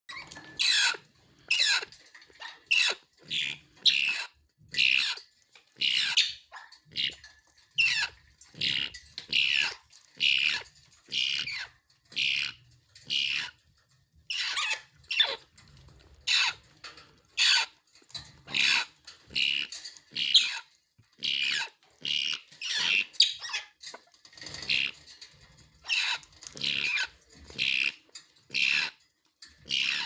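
Grey parrot chicks calling over and over in short cries, a little more than one a second, some of them falling in pitch.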